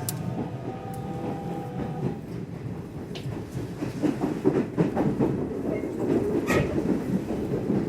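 Nishitetsu electric commuter train running along the track, heard from inside the car. A steady rumble with scattered rail clicks and knocks grows louder about halfway through.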